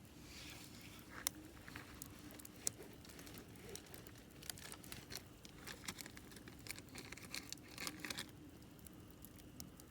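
Wood campfire crackling faintly, with two sharp pops in the first three seconds and a denser run of crackles from about four to eight seconds in.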